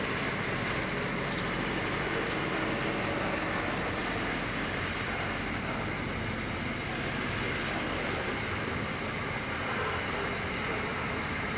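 Long container freight train rolling past with a steady, even noise of wagons on the rails.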